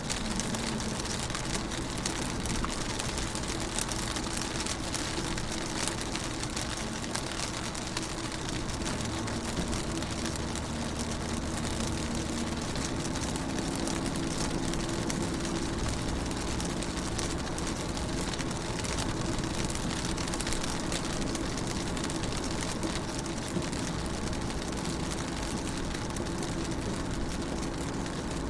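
Steady rain pattering on a car's windows and body, heard from inside the car as many fine ticking drops over an even hiss, with a low steady hum underneath.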